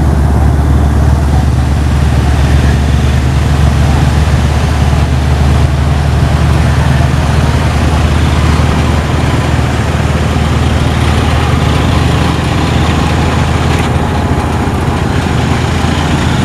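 Steady, loud low rumble of motor vehicle engines in slow, congested road traffic.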